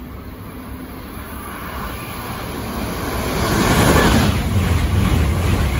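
Amtrak Acela Express trainset passing along the platform: a rush of air and rumble of wheels on rail that builds over the first few seconds and is loud from about three and a half seconds in.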